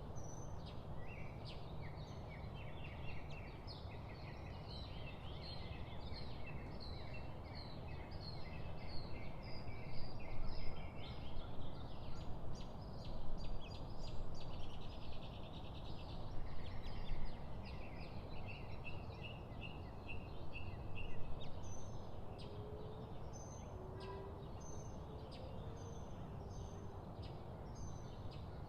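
Several wild birds calling and singing over a steady rushing background of rainforest and water ambience. Quick runs of chirps and trills fill the first half, then come rows of repeated notes, a few low sliding whistles and short high peeps.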